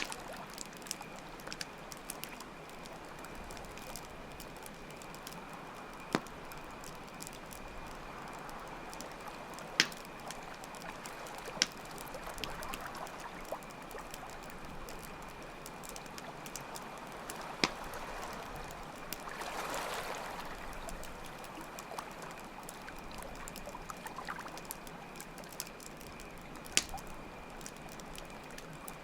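Night-time ambience of steadily flowing, lapping water, with a thin, steady cricket trill. A campfire crackles under it, with a few sharp pops scattered through.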